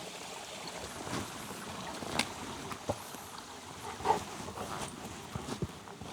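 Stream water flowing steadily, with scattered sharp clicks and knocks over it, the loudest about two seconds and four seconds in.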